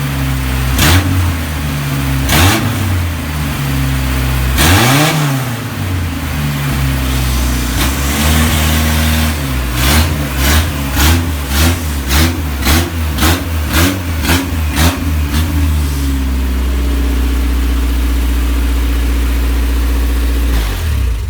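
Freshly rebuilt Isuzu 4ZE1 2.6-litre four-cylinder petrol engine being revved: a few slow rises and falls in engine speed, then a quick run of throttle blips at about two a second, then a steady idle. It is running on all four cylinders.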